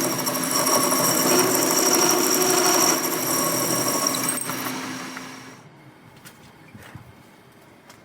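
A power tool running loudly and steadily, then switched off and winding down about five seconds in, followed by a few light clicks.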